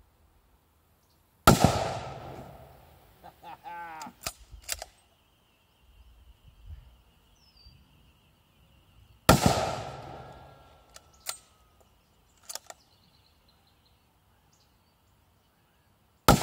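A .300 Weatherby Magnum bolt-action rifle (Weatherby Mark V Sporter) fires three times, about seven seconds apart. Each shot is a sharp crack with an echo that trails off. Between shots the bolt is worked with a short sliding sound and clicks.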